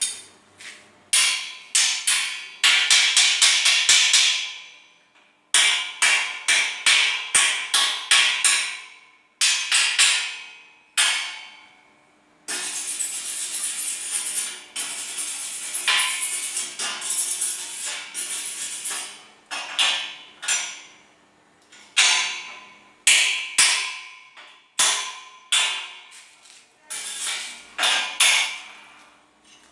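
Hammer striking steel grill bars, sharp ringing blows in quick runs with short pauses. A steady hissing noise runs from about a third of the way in to near the middle.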